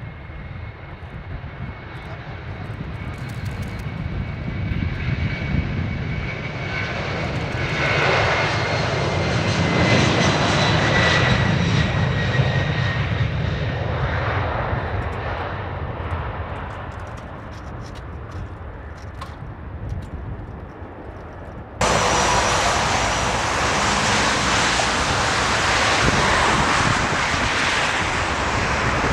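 Boeing jet airliner's engines passing: a steady engine noise with a high whine swells to a peak and fades. About three-quarters of the way through it cuts abruptly to another jet's louder, rushing engine noise.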